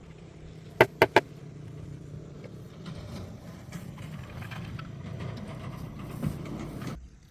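Three quick sharp knocks about a second in, then a steady low mechanical rumble that cuts off suddenly near the end.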